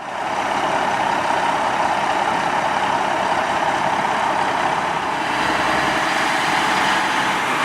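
Heavy fire truck engine running steadily, fading in at the start.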